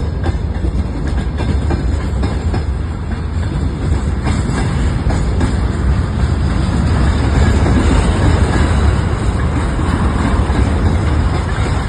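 A train passing on the rails: a loud, continuous rumble of wheels on track that swells slightly past the middle.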